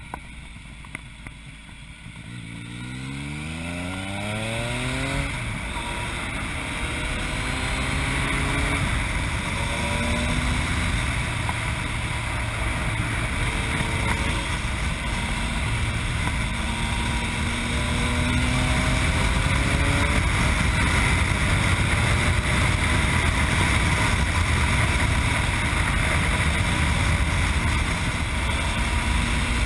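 Yamaha MT-09 three-cylinder engine through an Akrapovic exhaust, quiet at first, then accelerating hard from about two seconds in, its note rising, and pulling up through the gears with several shifts. Wind rush on the helmet-mounted microphone grows louder with speed.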